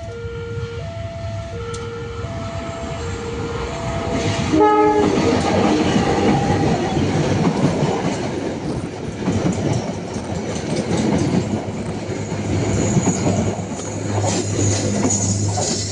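Level-crossing warning alarm sounding in two alternating tones, then a short blast of a locomotive horn about four and a half seconds in, followed by the loud rumble and wheel noise of a train passing close by.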